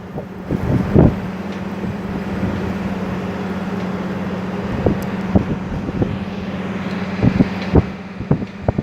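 Strong wind blowing over the microphone during a sandstorm, a loud steady rush over a constant low hum, with a few short gusty bumps about a second in and again in the last few seconds.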